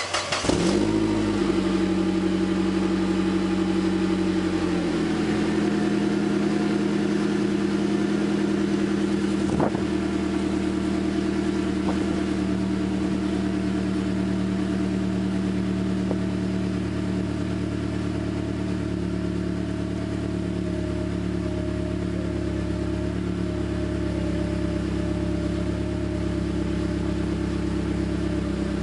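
Saab 9-5 engine catching on start-up and settling into a steady idle, heard through a 3-inch downpipe and an Abbott Racing sports centre section and backbox. The idle drops a little about five seconds in. A single short click comes about ten seconds in.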